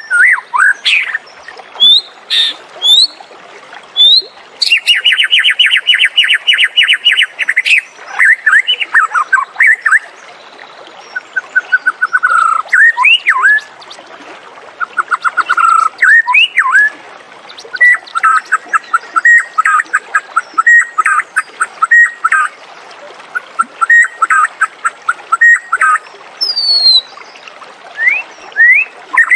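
White-rumped shama singing a varied song of clear whistles, sweeping notes and fast rattling trills, with phrases following one another with only short gaps.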